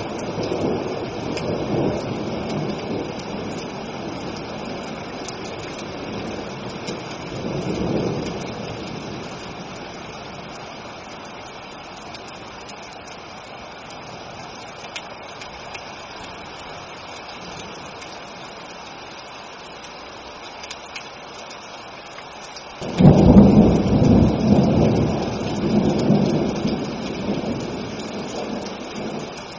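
Steady rain with rolling thunder: low rumbles in the first seconds and again around eight seconds, then a sudden loud crack of thunder near the end that rumbles on and fades.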